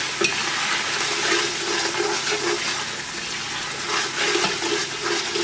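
Spice masala with green chillies and ginger-garlic paste sizzling in hot oil in a pot, stirred around with a spatula: a steady frying hiss with the strokes of the stirring.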